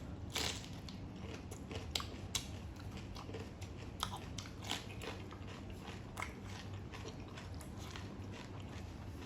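A person biting and chewing food: irregular crunches and clicks over a steady low hum.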